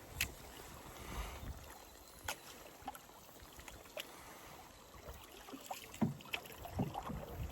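Canoe being paddled on a river: water swishing and splashing with the paddle strokes, a scattering of sharp knocks, and low wind rumble on the microphone.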